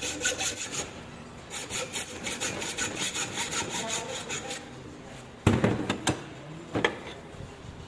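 Quick back-and-forth hand strokes on metal, about five a second: steel being cut by hand with a hand tool. The strokes pause briefly about a second in and stop after about four and a half seconds, followed by three loud knocks.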